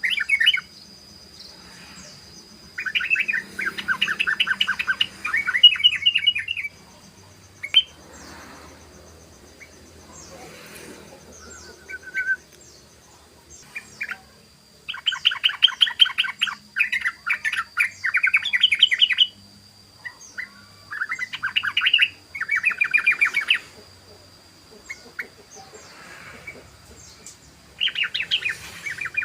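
Sooty-headed bulbul (trucukan) singing in the 'ropel' style: several bursts of fast, rattling repeated notes, each one to four seconds long, with quiet gaps between them. A faint steady high whine runs underneath.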